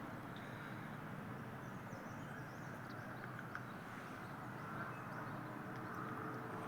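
Steady faint outdoor background noise, with a few faint high chirps in the middle.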